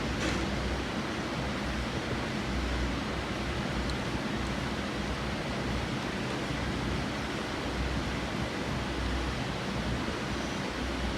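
Steady, even rushing noise with a low rumble underneath, and a faint click just after the start.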